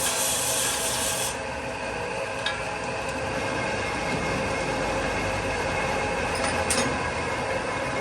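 Steady rasping metalworking noise, with a bright high hiss that drops away about a second in and a couple of faint clicks.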